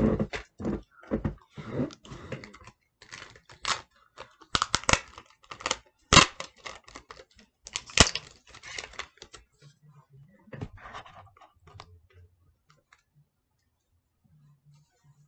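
Crinkling and crackling of material being crumpled and shaped by hand for a puppet's fingers: dense, irregular crackles that thin out to a few scattered ones after about ten seconds.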